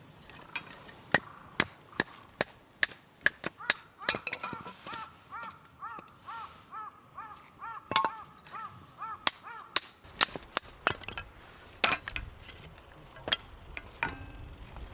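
Wood fire crackling with irregular sharp pops and snaps. From about four seconds in to near the middle, a bird calls a fast series of short, arching notes, two or three a second.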